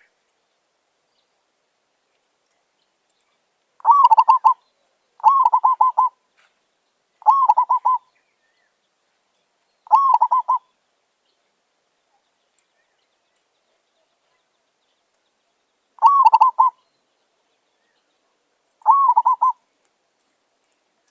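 Zebra dove cooing: six short staccato phrases, each a quick run of pulsed notes lasting under a second, spaced a few seconds apart.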